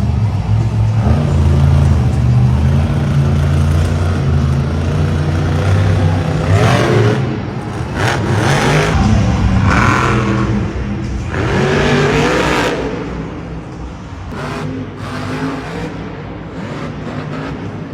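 Monster truck engine running loud, with several hard rising revs in the middle, then settling lower near the end.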